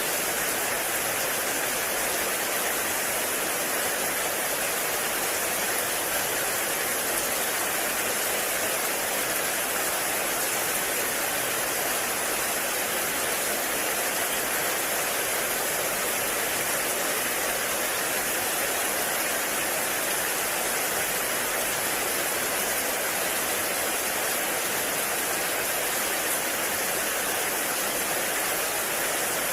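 Heavy rain falling in a forest, a steady, even hiss with no breaks or single drops standing out.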